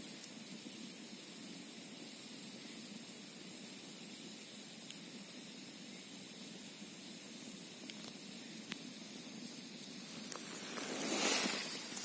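Campfire burning with a steady hiss and a few sharp, isolated crackles. Near the end a louder rushing noise swells in.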